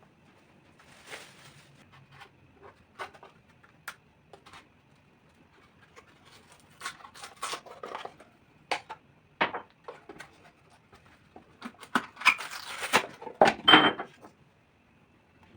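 Household items being handled and set down: scattered light clicks and knocks, getting busier with a run of clattering about twelve to fourteen seconds in.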